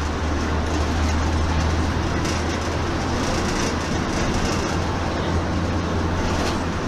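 Steady rumble of a moving vehicle, with engine and road noise heard from inside the cabin and a few faint knocks.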